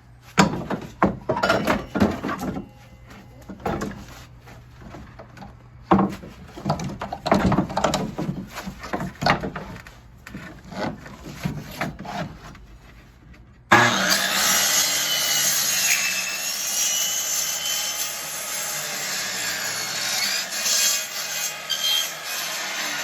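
Wood being worked: irregular knocks and scrapes of timber for the first dozen seconds or so. Then, suddenly, about fourteen seconds in, a loud continuous sawing noise through the wood.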